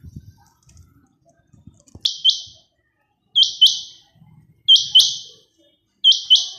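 A pet bird giving loud calls in quick doubles, four pairs evenly spaced about a second and a quarter apart. This is a male bird, separated from its mate, which the owner says has gone completely crazy since the female was shut away from him.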